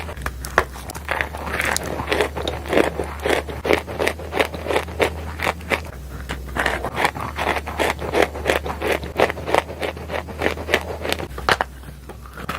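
Dry Turkestan edible clay being bitten and chewed: a quick run of crisp crunches, about three a second, fading near the end, over a faint steady low hum.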